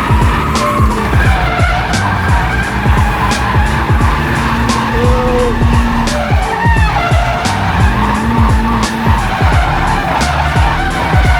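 Drift car sliding with its tyres squealing and the engine held at high revs, under music with a steady beat.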